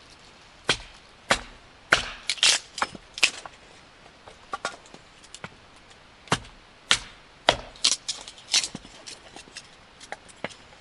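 Firewood being split into kindling: a series of sharp, irregular knocks and cracks, some coming in quick clusters of two or three.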